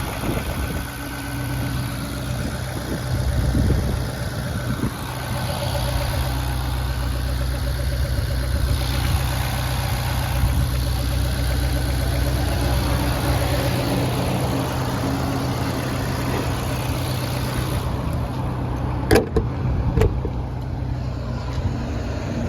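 Ferrari Portofino's twin-turbo V8 running steadily at idle, with two sharp clicks near the end.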